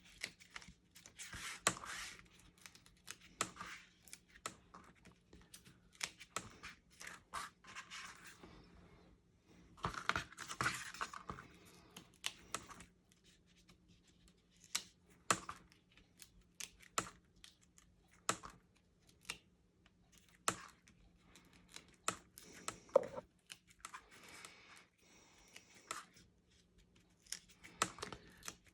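Foam adhesive dimensionals being peeled off their backing sheet and pressed onto cardstock: short peeling rips and small taps and clicks at irregular intervals, with quiet gaps between.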